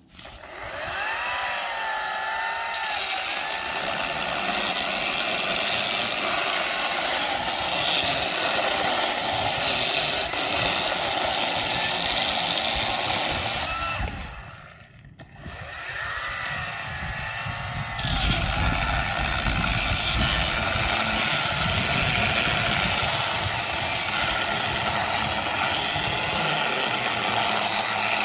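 Small power saw running and cutting firewood, its motor whine wavering in pitch. It stops briefly about halfway, then starts again, and runs heavier and deeper from about two-thirds of the way in as it cuts under load.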